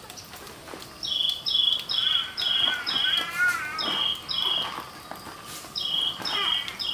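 A bird calling over and over in short notes that step down in pitch, about two a second, in two runs with a pause in the middle. A lower warbling call joins in partway through. Faint scrapes and knocks come from soil being scooped into a plastic basin.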